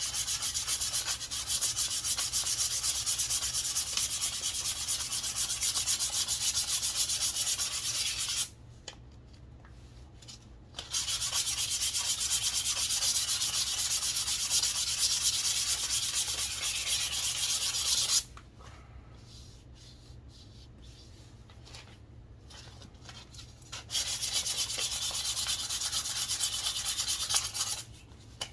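Sandpaper rubbed back and forth along a wooden walking stick, in three long spells of steady rasping strokes with two short pauses between them.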